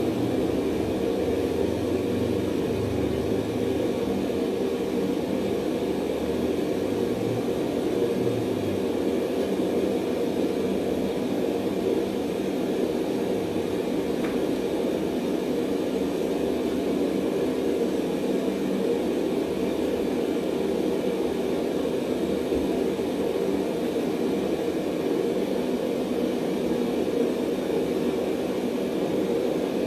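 Blacksmith's forge running with a steady, even rushing noise while steel heats in it.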